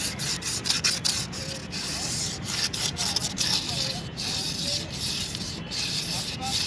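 Sandpaper rubbed back and forth by hand over the inside of a motorcycle's rear brake drum, in a run of scratchy strokes. It is scouring off the carbon glaze that makes a drum brake whistle.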